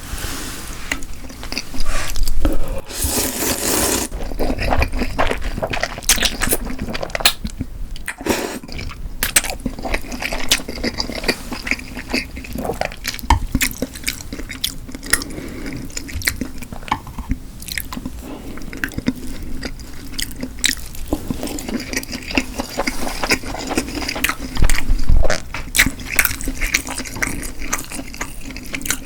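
Close-miked eating sounds: a person chewing and biting, with many small wet clicks and smacks and louder noisy stretches about two to four seconds in and again around twenty-five seconds.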